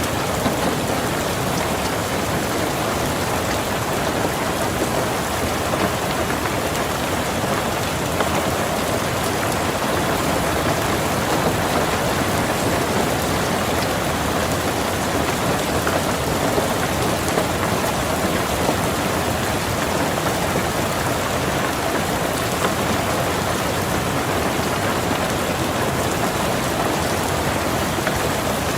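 Steady rain falling on a car, heard from inside the cabin, with small scattered louder drop hits.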